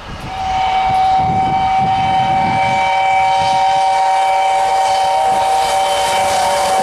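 Steam locomotive 60163 Tornado's whistle blown in one long, loud blast of about six and a half seconds, several notes sounding together as a steady chord that cuts off at the end.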